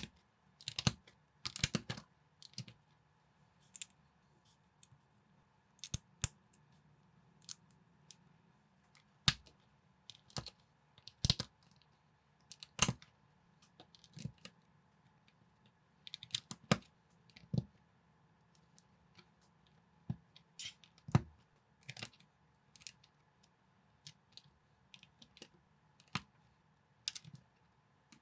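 Plastic Lego-compatible building bricks being handled and snapped together: irregular sharp clicks, sometimes in quick clusters, with short pauses between.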